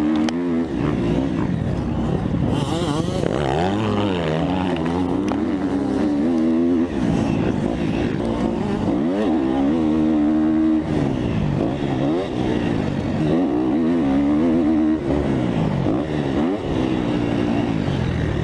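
Single-cylinder four-stroke motocross bike engine, a KTM 250 SX-F, being ridden hard. The engine revs up and drops back over and over, every second or two, with gear changes through the ruts.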